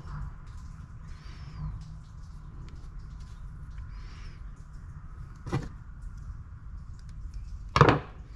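Two sharp knocks of pump parts being handled during reassembly, one about five and a half seconds in and a louder one near the end, over a steady low hum.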